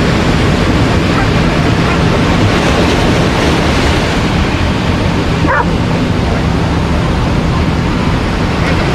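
A dog yips briefly about halfway through, over a loud, steady rush of ocean surf.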